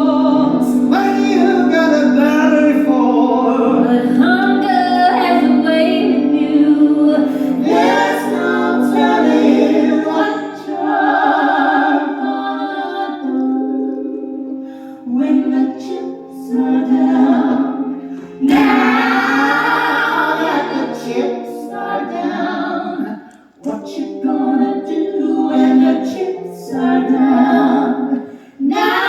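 Women's voices singing in close harmony in a live stage-musical performance, with sustained notes and brief breaks between phrases.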